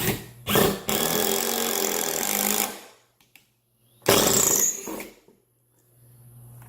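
Black & Decker BDCI20C 20V cordless impact driver driving a screw into wood, hammering steadily for about two seconds, then another shorter run about four seconds in.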